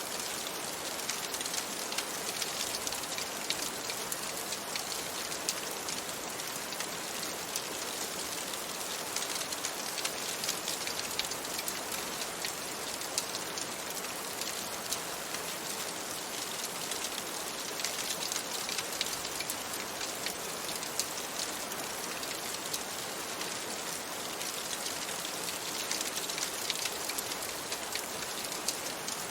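Steady rain falling on a window, an even hiss with many small, quick ticks of drops.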